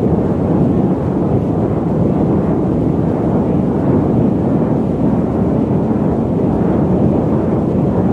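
Loud, steady static noise, deep and rumbling rather than hissy, with no change in level or character.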